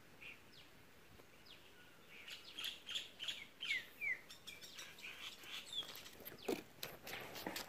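Small birds chirping in quick, short, falling notes, starting about two seconds in and thinning out after six seconds, with scattered faint clicks and a brief louder scuff near the end.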